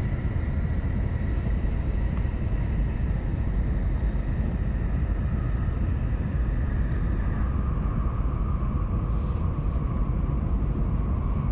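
Steady low rumble of a Shinkansen train running, heard inside the passenger cabin. A faint steady whine joins about two-thirds of the way through.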